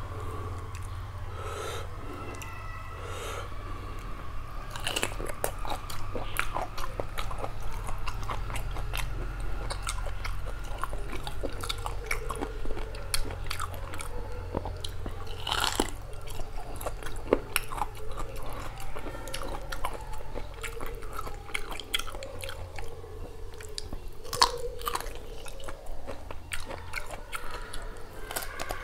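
Close-up chewing and mouth sounds of a person eating beef curry and rice by hand: wet smacking and many quick sharp clicks, over a steady low hum.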